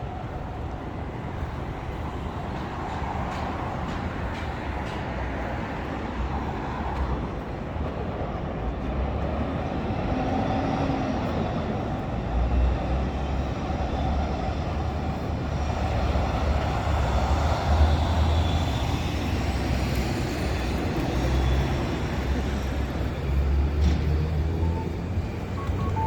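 City traffic noise: a steady rumble of passing vehicles that grows somewhat louder about halfway through.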